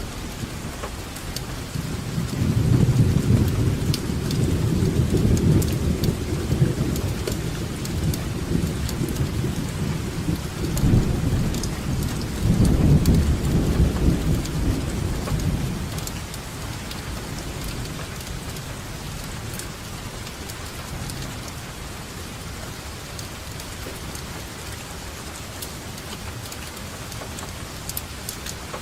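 Steady rainfall with rolling thunder: a deep rumble builds a couple of seconds in, swells again midway, and dies away, leaving the rain alone.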